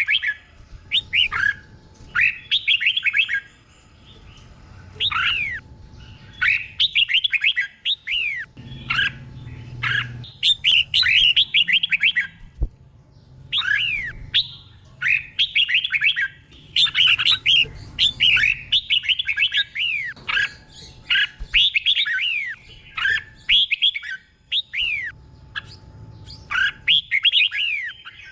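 Red-whiskered bulbul singing: short, bright phrases of quick whistled notes, many sweeping down in pitch, delivered in repeated bursts with brief pauses between them. The phrases are the doubled 'teacher bird' song used to train caged bulbuls.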